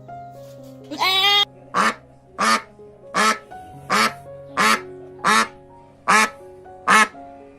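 A duck quacking over background music: one longer quack about a second in, then a run of about eight short quacks, evenly spaced.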